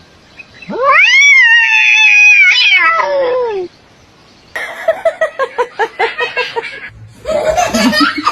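A cat's long, loud yowl that rises, holds and falls away over about three seconds, followed after a short pause by a quick run of short, repeated cries.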